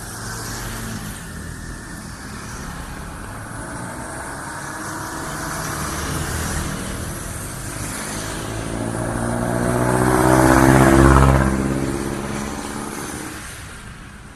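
A motor vehicle passes: its engine and tyre noise build to a peak about ten to eleven seconds in, then fade away.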